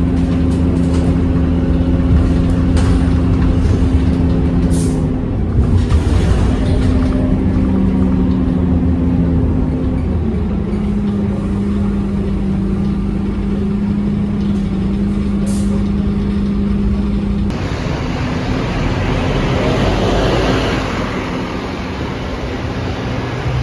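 Scania K230UB city bus running: a steady engine drone whose pitch steps down twice, about five and ten seconds in, with short hisses of air now and then and a longer hiss later on.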